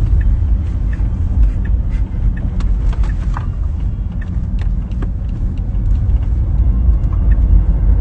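Steady low road and tyre rumble inside a moving Tesla's cabin as the electric car drives along.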